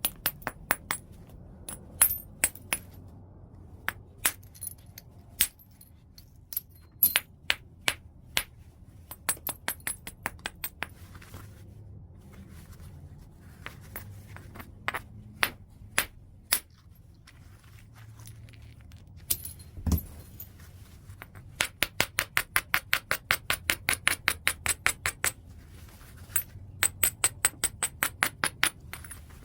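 Stone-on-stone knapping of white chert: sharp, high clicks and taps of the knapping tool striking and working the edge. The taps are scattered at first, with one duller knock about two-thirds in, then a fast, even run of light strikes at about five a second.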